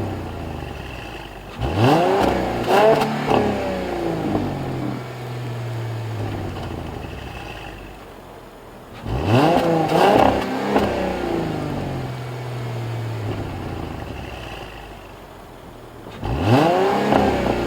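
2013 Mercedes-Benz E300 4Matic's V6 engine revved three times, each rev rising in pitch and falling back to a steady idle.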